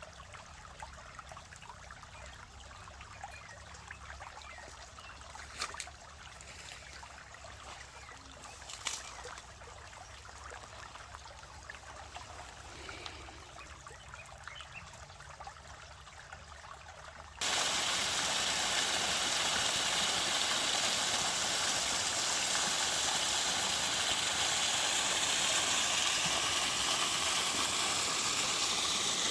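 Running water of a stream, a steady trickling rush; about two-thirds of the way through it cuts suddenly to a much louder, fuller rush.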